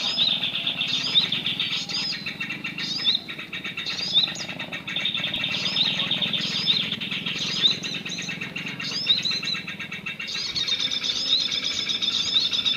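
Songbird calls, dense high chirps and trills repeating over and over at an even pace, played as a decoy recording through a small speaker to lure birds to birdlime.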